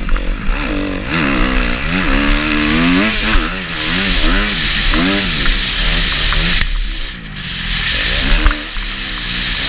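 Kawasaki KX250F single-cylinder four-stroke motocross bike engine revving hard and easing off, its pitch climbing and falling several times as the throttle opens and shuts. Revs drop briefly about seven seconds in, then pick up again.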